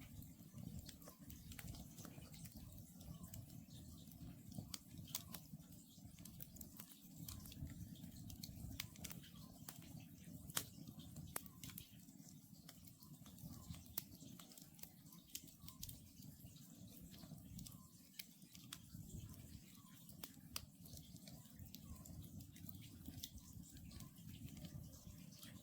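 Wood campfire crackling and popping with a low steady rumble of the flames, while an Oriental scops owl calls faintly over and over, about once a second.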